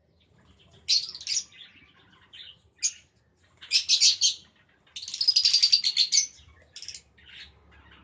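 Pet lovebirds chirping in shrill bursts. The longest and loudest is a chattering run of about a second, starting about five seconds in, followed by a few quieter chirps.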